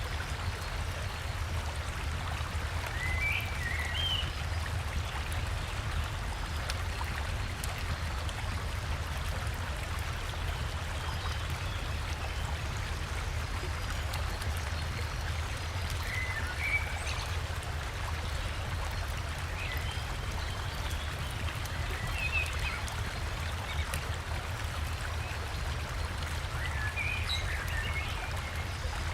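River water flowing steadily, with a low rumble. A few short bird chirps come and go over it.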